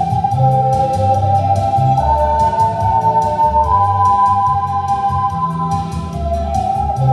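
Ocarina ensemble playing a melody in clear, sustained notes, over a low bass accompaniment pulsing in a steady rhythm.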